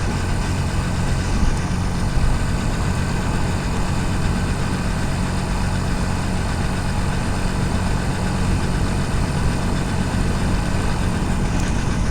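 Motorcycle engine running at a steady pitch while riding, picked up by a helmet-mounted camera, over a constant hiss of wind and rain.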